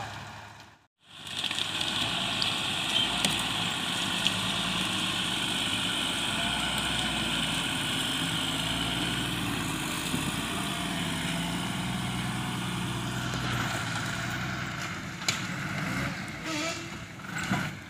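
Truck engine running steadily, with a steady high whine above it. The sound drops out briefly about a second in, and a few short louder sounds come near the end.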